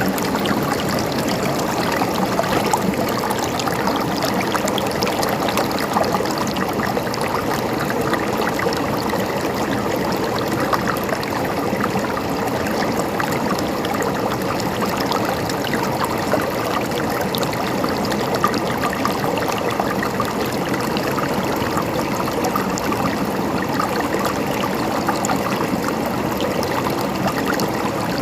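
Stream water running and trickling steadily, an even babble of gurgling water.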